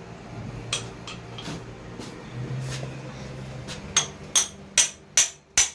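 A few light metal clinks, then from about four seconds in a steady run of hammer blows, one every half second or less. They drive a rod into the crankshaft's pilot bearing bore packed with bread, so that the pressure forces the worn pilot bearing out.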